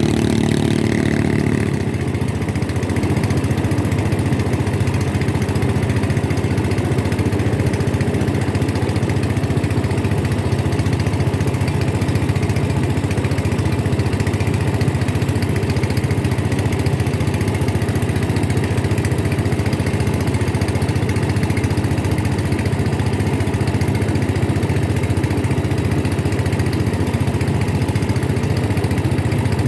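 Motorboat engine running steadily at a constant note. A second, higher engine tone fades out about two seconds in.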